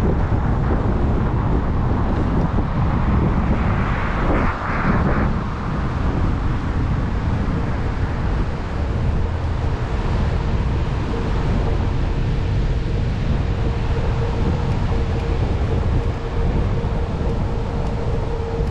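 Steady road noise of a car driving: tyre rumble and wind, with a brief louder rush about four seconds in and a faint steady hum from about eight seconds in.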